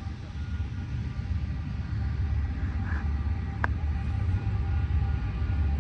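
Union Pacific unit coal train's loaded hopper cars rolling past on the rails, a steady low rumble. A single sharp click about three and a half seconds in.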